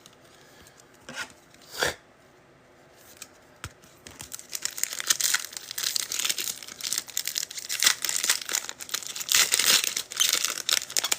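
A trading card pack's wrapper being torn open and crinkled by hand, after a couple of light clicks near the start; the tearing and rustling starts about four seconds in and keeps on, crackly and uneven.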